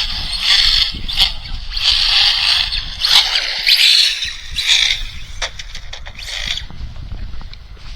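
Electric RC short-course car with a TP Power motor, converted to slick tyres, driven in repeated short bursts of throttle: hissy bursts of motor, drivetrain and tyre-scrub noise that die away near the end. Wind rumbles on the microphone.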